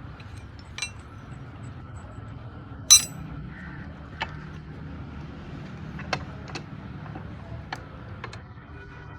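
Metal tools and parts being handled: irregular sharp clinks and taps, the loudest about three seconds in, over a steady low hum.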